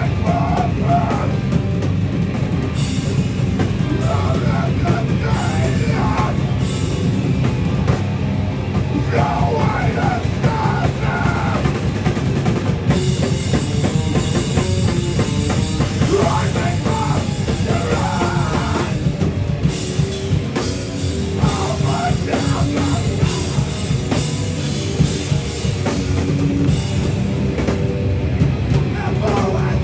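Hardcore band playing live and loud: drum kit, guitars and bass in a dense, unbroken wall of sound.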